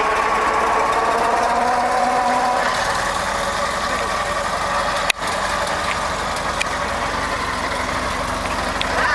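Ford Model T's four-cylinder engine running slowly as the car drives along at parade pace, with faint voices over it. A brief click and dropout about five seconds in.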